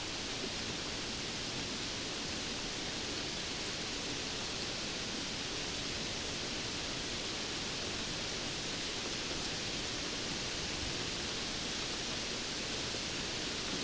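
Steady rainfall: an even, bright hiss that holds level throughout, with no single drops or thunder standing out.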